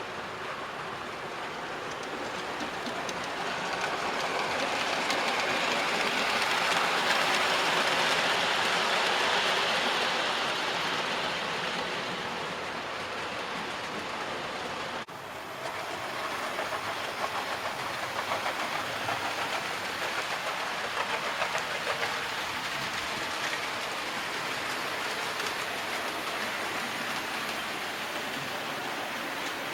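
Model train running on the layout's track: the whirr and rumble of the wheels and motor grow louder as it passes close, then fade. The sound breaks off abruptly about halfway through, then carries on as a steadier running noise with light ticking of wheels over the rail.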